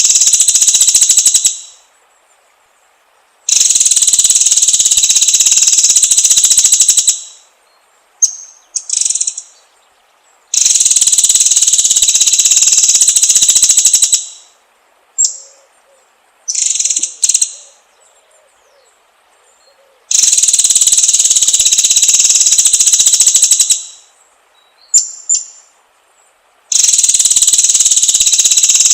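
White-rumped shama (murai batu) song: loud, rapid, rattling high trills in bursts of about three seconds, five times, with short sharp chirps in the pauses between them.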